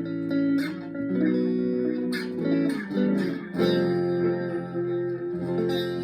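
Chapman ML1 electric guitar played through a Donner Yellow Fall delay pedal into a Blackstar HT1-R amp: a run of picked notes and chords, with the delay time at maximum and the echo at half, so the repeats overlap and hang on under each new note.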